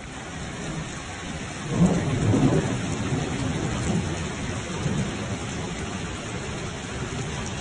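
Heavy rain pouring onto a flooded street, a dense steady hiss. A louder low rumble swells about two seconds in and dies away over the following seconds.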